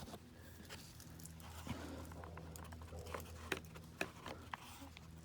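Faint scattered clicks and scrapes of hands working at a dryer vent cover to pry it off, over a low steady hum.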